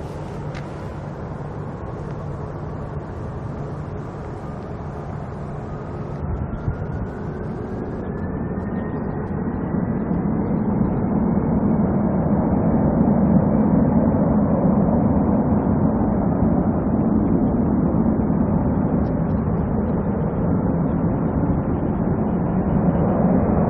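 Jet airliner engines: a low rumble that grows steadily louder over the first dozen seconds and then holds, with a thin whine that rises in pitch along the way.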